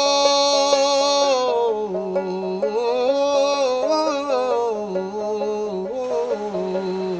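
Background music: a solo singing voice holding one long note, then gliding through slow, wavering notes.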